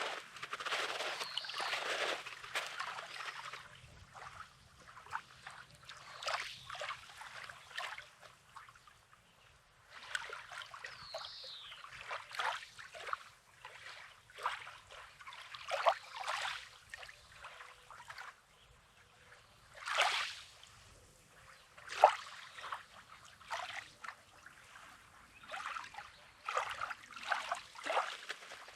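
Small sea waves lapping at a rocky, sandy shoreline: irregular splashes and sloshes every second or two, with water trickling back between them. One sharper splash comes a little past the two-thirds mark.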